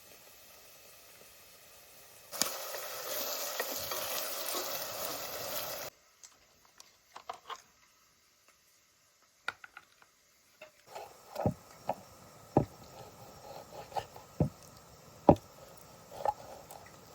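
Food sizzling in hot oil in a pan for about three and a half seconds, starting and stopping abruptly. After a quiet pause come several irregular sharp knocks, like utensil or kitchen work on the pot or board.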